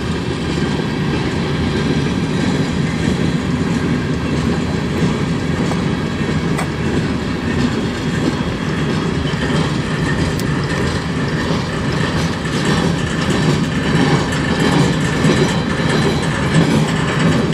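Freight cars of a passing CN train rolling by: a steady rumble of steel wheels on the rails, with clicking over the rail joints that grows clearer near the end.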